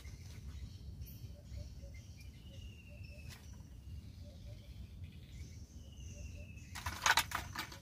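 A bird's short, slightly falling whistle repeating every couple of seconds over a low wind rumble on the microphone, with a brief rustling clatter near the end.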